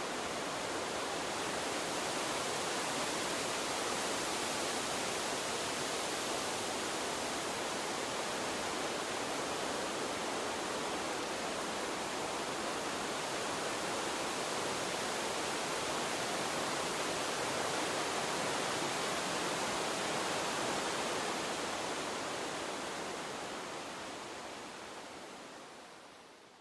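Water stream flowing with a steady rush, fading out over the last few seconds.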